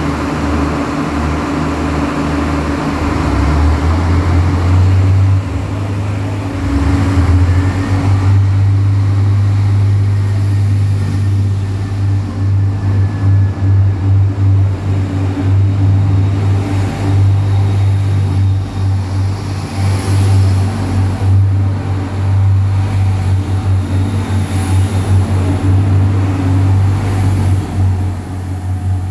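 Train alongside a station platform: a steady, loud low hum that wavers in loudness.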